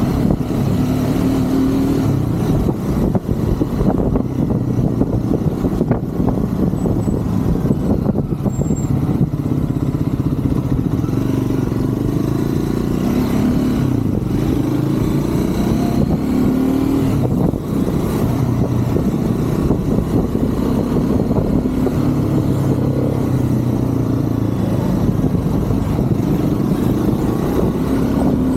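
Triumph Scrambler 400 X's single-cylinder engine running under way, its pitch rising and falling several times as the bike accelerates and eases off.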